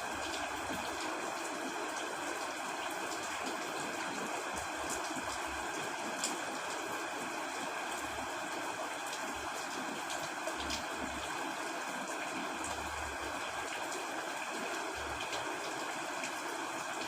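Steady rain falling on a tent, with scattered individual drops ticking sharply over the even hiss.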